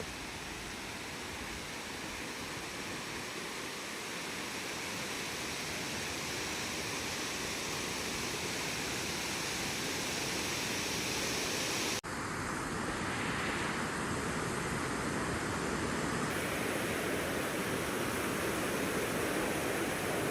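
Steady rush of falling water from Curtis Falls waterfall, growing slightly louder, with an abrupt change in tone about twelve seconds in.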